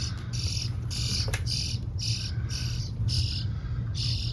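Starling nestlings begging in a nest behind a wall: a regular series of short raspy, high-pitched calls, about two a second, over a steady low hum.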